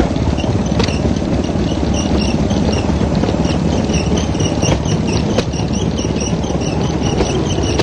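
Small lawn-mower-type petrol engine of a bamboo train running steadily, with a few sharp clicks and a high chirping that repeats several times a second.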